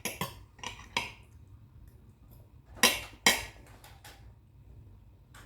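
A handful of sharp clinks and knocks of cutlery against kitchenware, scattered and irregular, with the two loudest a little under half a second apart about three seconds in.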